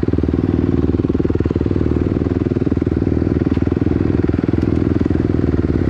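Off-road vehicle engine idling steadily close by, a rapid, even chain of firing pulses with no revving.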